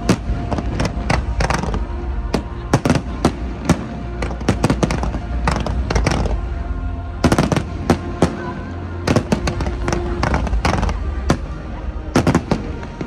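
Fireworks display: an irregular barrage of shell bursts and crackling bangs, thickening into dense clusters about seven seconds in and again near the end.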